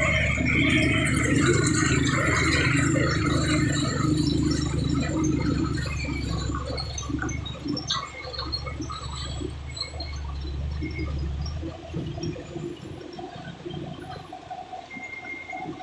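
Heavy truck's diesel engine running in a low, steady rumble as it climbs the hill, dying away about twelve seconds in.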